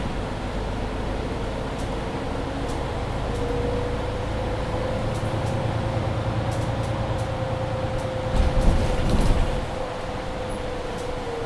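Mercedes-Benz Citaro C2 hybrid city bus driving, a steady running noise with a whine that rises slightly and then falls away near the end. A few louder knocks come about eight to nine seconds in.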